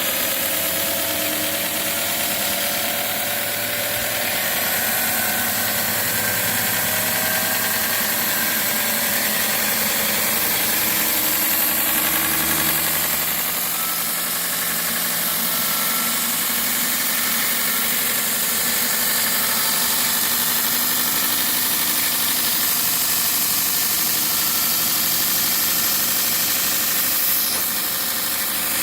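Homemade 75x2000 mm belt grinder running steadily, its motor and abrasive belt giving a constant hum with a bright hiss.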